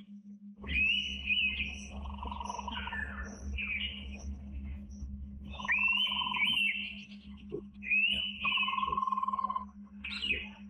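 Indian pitta giving its loud whistled calls, each starting with a rising note, four times. Under three of them runs a rapid, even, pulsed trill from another animal, over a steady low hum.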